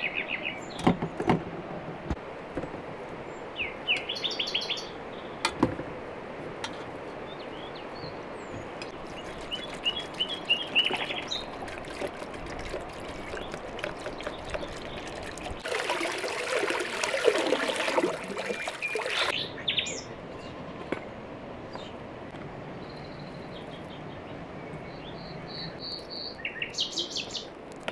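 Small birds chirping in short, quick high-pitched trills a few times, over a background of outdoor ambience with scattered clicks and knocks. For about three seconds past the middle a louder rushing, splashing noise stands out.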